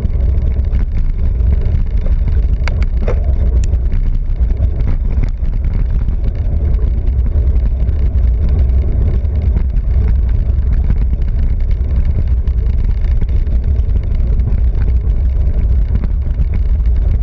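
Loud, steady wind rumble and buffeting on the microphone while riding fast on a bike, with a few sharp clicks about three seconds in.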